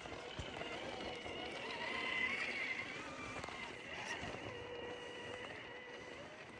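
Electric motor and drivetrain gears of an Element RC Sendero scale crawler whining as it drives slowly, the whine rising and falling with the throttle and loudest about two seconds in.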